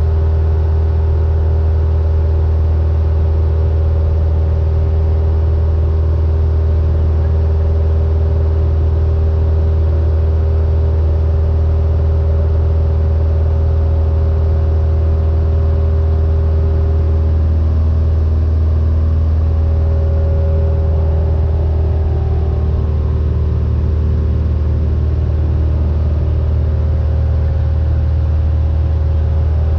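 Cessna 172N's four-cylinder Lycoming engine and propeller droning steadily with a deep hum; the tone shifts slightly a little past twenty seconds in.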